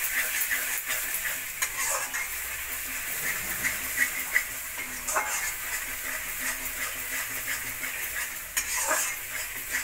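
A spoon stirring masala paste frying in mustard oil in a metal kadhai: a steady sizzle with scattered scrapes and clicks of the spoon against the pan. The paste is being fried until the oil separates.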